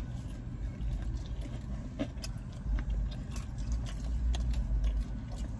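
Chewing and small wet mouth clicks from people eating pizza, heard over a low steady rumble inside a car.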